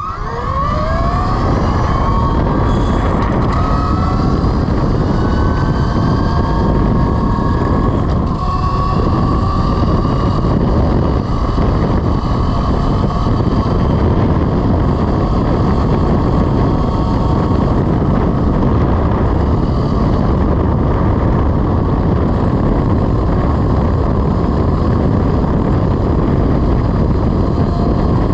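Velimotors VMX12-F electric motorcycle's 12 kW motor whining as it accelerates, the whine rising in pitch over the first several seconds and then holding steady at speed, under heavy wind rumble on the microphone.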